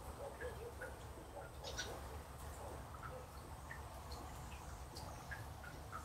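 Birds calling in the background: scattered short chirps and clucking notes, several a second, over a faint low steady rumble.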